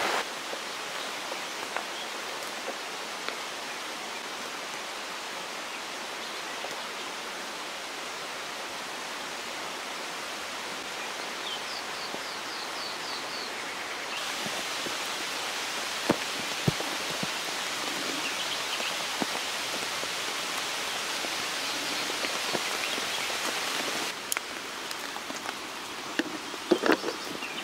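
Steady rain pattering on forest leaves, an even hiss. It gets louder about halfway through and eases again a few seconds before the end.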